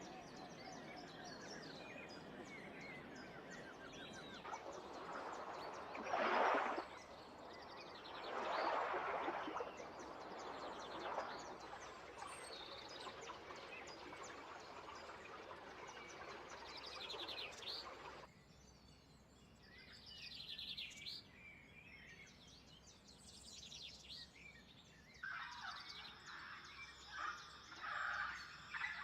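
Wild birds chirping and calling over a steady background hiss. Two louder noisy swells come a few seconds in, the hiss drops away suddenly about two-thirds of the way through, and near the end a busier run of calls starts.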